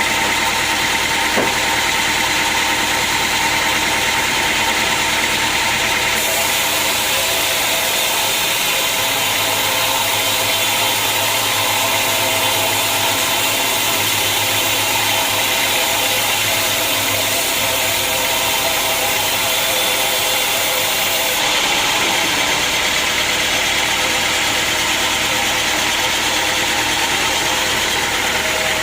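Sawmill machinery running, a loud, steady mechanical drone with several steady tones in it. The sound changes character about six seconds in and changes back about twenty-one seconds in.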